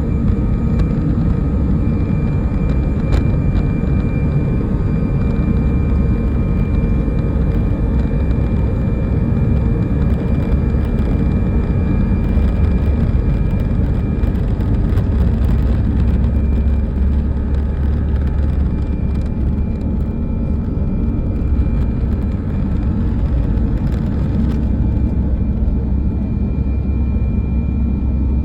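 Airbus A319 jet engines running, a loud steady rumble with a thin steady whine over it.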